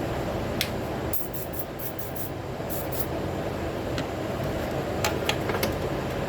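A fan running steadily, with scattered light clicks and taps of hand tools as work goes on under the hood.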